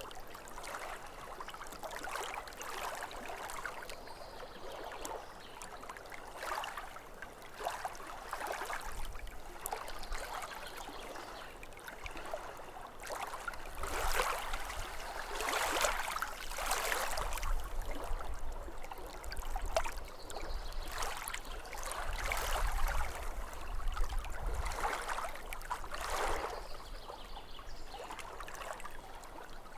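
Small waves lapping against a lake shore in irregular, uneven splashes, a little louder in the middle.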